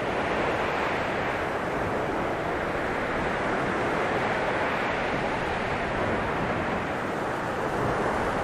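Blizzard wind blowing: a steady rushing noise that swells and eases slightly.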